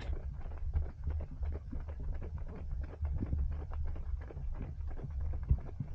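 Running footsteps at a steady jogging pace, picked up by a small action camera carried by a runner, over a constant low rumble of wind and movement on the microphone. There is a sharper knock about five and a half seconds in.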